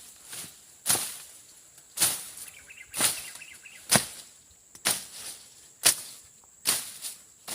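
A machete slashing through grass and brush, a sharp swish-and-cut about once a second, seven or eight strokes in all. Insects hum faintly and steadily in the background.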